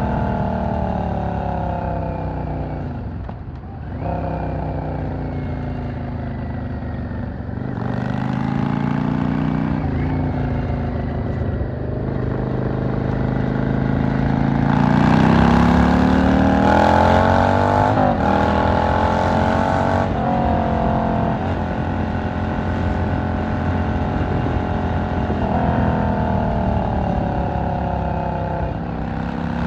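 V-twin cruiser motorcycle engine under way: it eases off with falling revs for the first few seconds, climbs through the revs again, pulls hardest and loudest from about halfway, then settles to a steady cruise.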